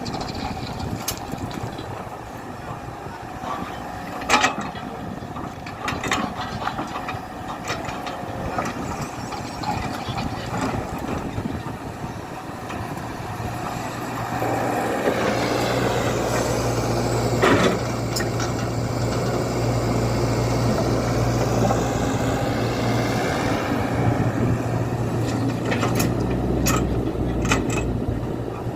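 Tata Hitachi EX120 excavator's diesel engine running, with scattered knocks and clanks. About halfway through it rises in pitch and settles into a louder, steady, deeper hum under load.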